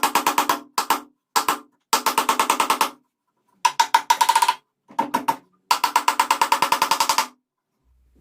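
Mechanism of a restored 1960s manual machine clattering in rapid runs of evenly spaced clicks, about eleven a second, with a ringing tone under them. The runs come in several bursts of half a second to a second and a half with short pauses, and stop near the end.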